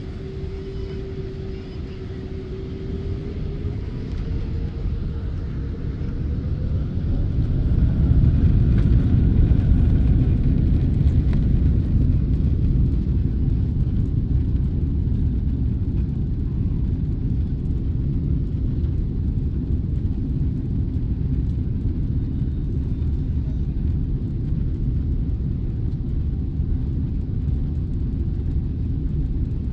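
Boeing 777-300 jet engines spooling up to takeoff thrust: a steady whine rises in pitch over the first several seconds as the sound grows louder. It then settles into a loud, steady low rumble through the takeoff roll.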